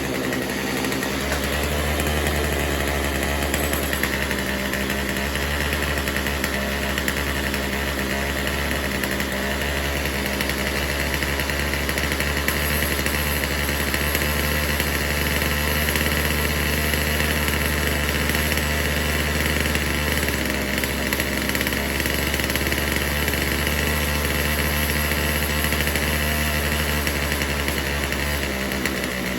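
Poulan Pro 4620 two-stroke chainsaw engine idling steadily, its carburettor freshly tuned, with the pitch shifting slightly a few times.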